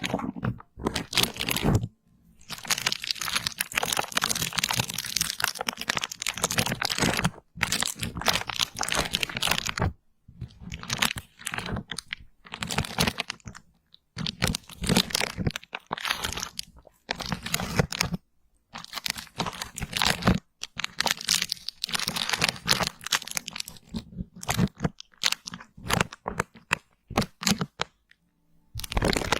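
Close-miked crunching and crackling ASMR sounds, coming in runs of a few seconds with short silent breaks between them.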